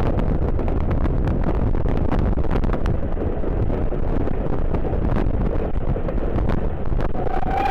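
Wind buffeting the microphone over a steady low rumble, with scattered clicks. A short pitched tone with overtones begins right at the end.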